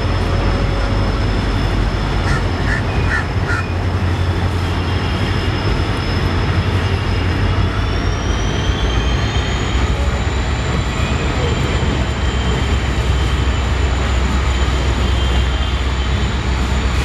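Passenger train running, heard from on board a coach: a steady low rumble of wheels and running gear, with a thin high whine that rises in pitch about eight seconds in as the train picks up speed. A few short high chirps come about two to three seconds in.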